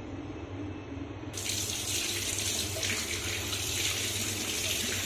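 Water from a Kohler basin diverter tap turned on about a second in and running steadily into the basin with an even hiss.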